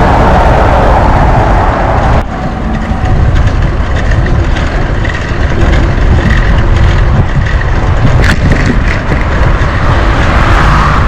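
Wind buffeting the microphone during a bike ride, a loud steady low rumble, with a single sharp knock about eight seconds in.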